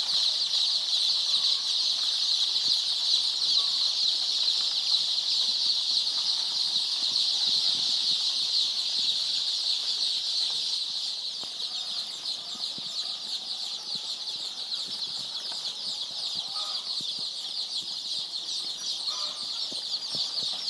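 A large flock of day-old layer chicks peeping without a break, a dense high-pitched chorus of many overlapping cheeps; it eases a little about halfway through.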